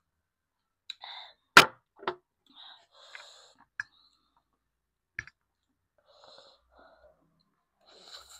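Close-miked eating sounds from a noodle mukbang: short slurps and mouth noises, broken by sharp clicks, the loudest about a second and a half in.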